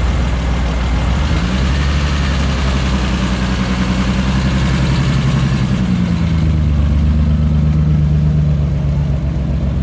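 Car engine running at low revs, its pitch lifting slightly about a second and a half in and settling back down around six seconds.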